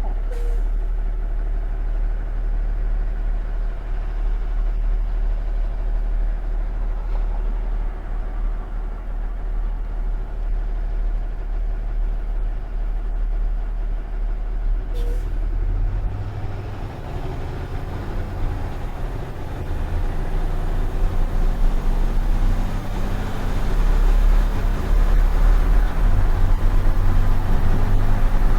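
Box truck's engine drone and road noise heard from inside the cab while driving. About halfway through the engine note changes, and it grows louder toward the end.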